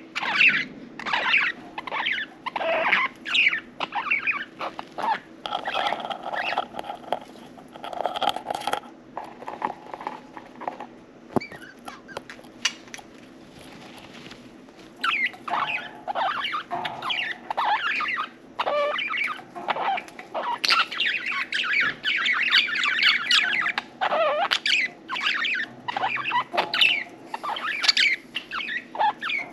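Budgerigars chirping and chattering in many short, sharp calls, falling quieter for a few seconds around ten seconds in, then thickening into dense warbling about two-thirds of the way through.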